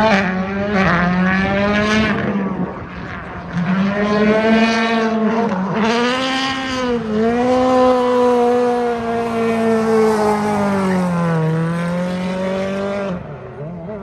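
A car engine held at high, steady revs with a few brief dips in pitch while its tyres spin on the track. It drops away about a second before the end.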